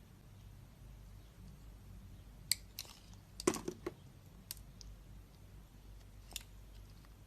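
Knife cutting into a bar of soap: a few short, crisp clicks and crunches, scattered, with a quick cluster of cuts around the middle.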